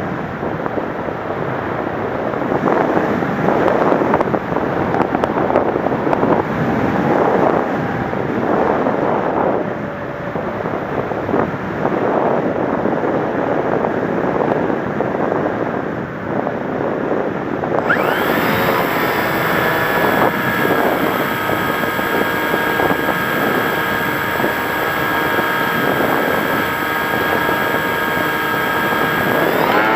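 Wind rushing over the microphone of an FPV Raptor model plane in flight. About two-thirds of the way in, this gives way abruptly to a steady high whine from its motor and propeller, which starts to rise in pitch at the very end as the throttle opens.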